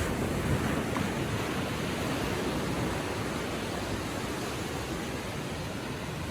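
Small ocean waves washing gently onto the shore, a steady hiss of surf that eases off slightly toward the end.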